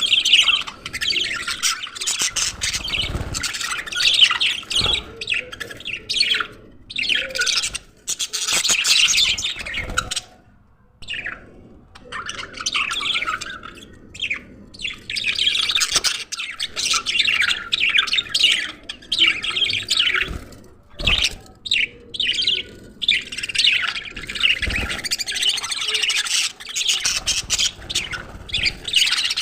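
Budgerigars chirping and chattering in a dense, continuous warble of rapid high notes, dropping away briefly about a third of the way in before resuming.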